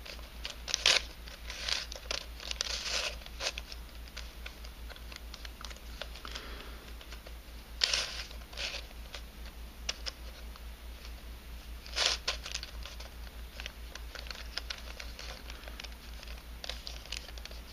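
Helicopter-cube twisty puzzle, 3D-printed in nylon, clicking and scraping as its pieces are twisted by hand. It comes in irregular bursts, loudest about a second, eight and twelve seconds in.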